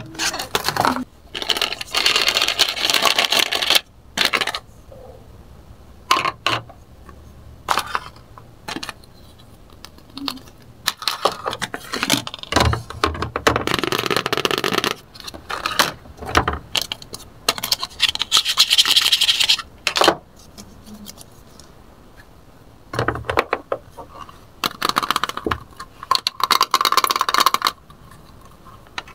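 Hard plastic toy kitchen-sink playset pieces being handled: toy plates, dish rack, cutting board and faucet unit clattering, knocking and scraping together in irregular bursts with short pauses between.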